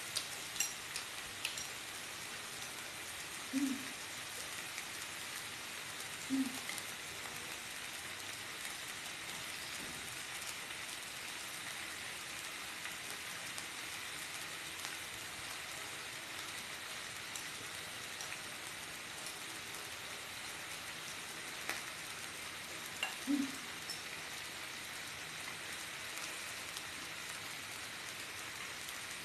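Pork belly and sausages sizzling steadily in hot fat on a Teflon pan, with a fine crackle. A few short, low sounds come through, about 3 s in, 6 s in and near 23 s.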